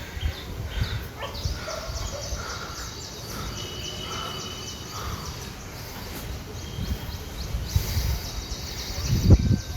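Outdoor rural ambience with birds calling in short chirps over a low rumble. A few heavier low thumps come near the end.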